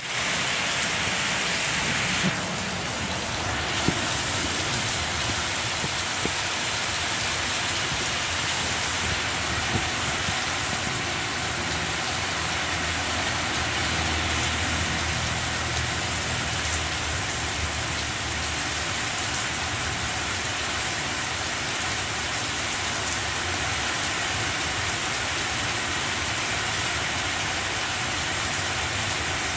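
Steady rain falling on banana plants: an even, unbroken hiss, with a few sharper drop ticks here and there.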